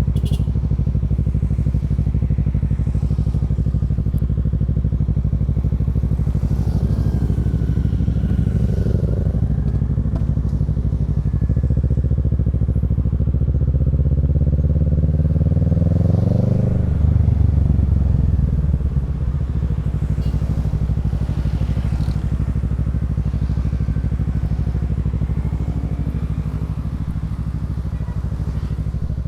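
Kawasaki Z650's parallel-twin engine running through a Yoshimura Alpha exhaust, steady at first, then climbing in revs for several seconds before the pitch drops sharply a little past halfway.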